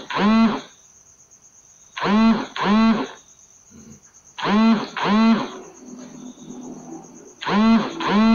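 A loud two-note call repeated in pairs about every two and a half seconds, each note a short cry that rises and falls in pitch, over a steady high insect trill.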